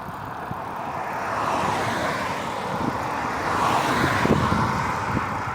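A passing vehicle on a road: its tyre and engine noise swells to a peak about four seconds in, then eases off.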